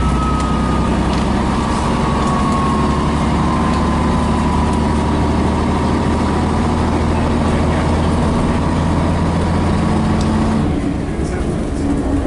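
Scania BR111H double-decker bus's diesel engine running under way, with a thin whine that falls slowly in pitch. About ten seconds in, the noise eases and the engine note shifts.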